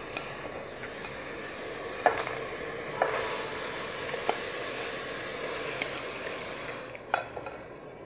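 Chana dal being stirred into a pan of frying tomato, garlic and spice masala: a steady sizzle that grows louder about three seconds in, with a few sharp knocks of the spoon against the pan.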